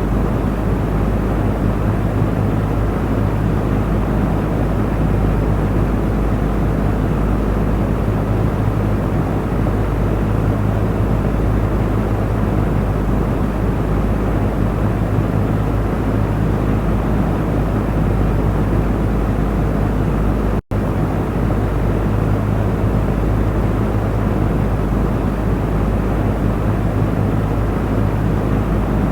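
Electric fan running steadily: an even rushing of air over a low, constant hum. It cuts out for a split second about two-thirds of the way through.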